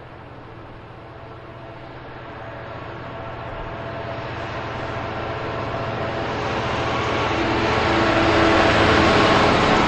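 Class 66 diesel locomotive approaching with a coal train, its EMD two-stroke V12 engine getting steadily louder as it nears.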